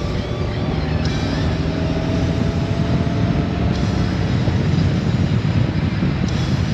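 Honda Gold Wing DCT motorcycle on the move: steady wind and road noise over its flat-six engine, growing slightly louder through the stretch.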